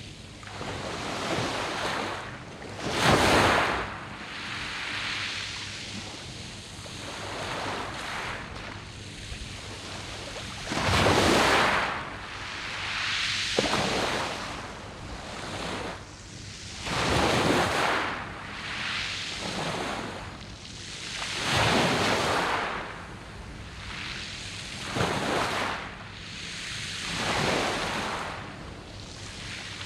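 Sea waves breaking and washing up and back over a beach of round pebbles. Each wave surges in and falls away every few seconds, the strongest about three, eleven, seventeen and twenty-two seconds in.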